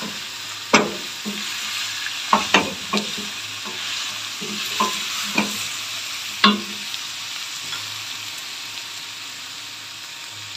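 Mutton and onions frying in oil in a stainless steel pot, with a steady sizzle, while a wooden spatula knocks and scrapes against the pot as the mix is stirred. The stirring stops after about six and a half seconds, leaving only the sizzle.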